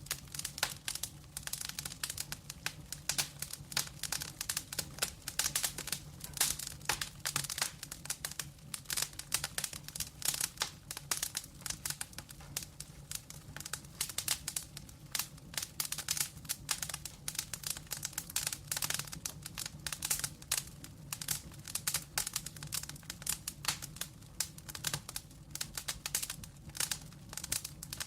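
Wood logs burning in a fireplace, crackling and popping in quick, irregular snaps throughout, over a low steady hum.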